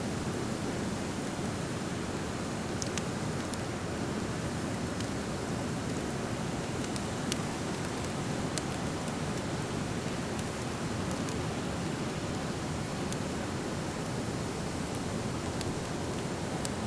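Driftwood fire burning in a metal fire pit, crackling with scattered sharp pops, the loudest about seven seconds in, over a steady rushing noise.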